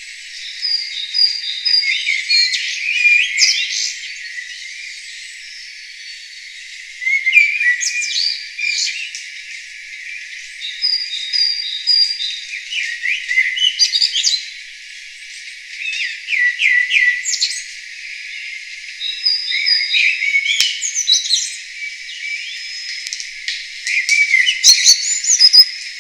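Songbirds singing, several calls overlapping: short repeated whistled notes, quick trills and downward-gliding chirps, coming in bouts with brief lulls. The recording has no low sounds at all.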